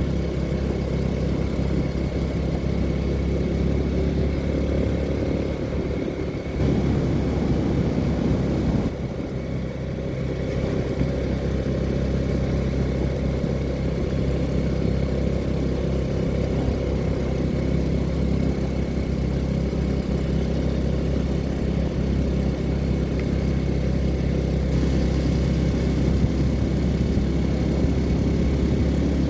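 Steady vehicle engine and road drone, with a brief change in the sound about seven to nine seconds in.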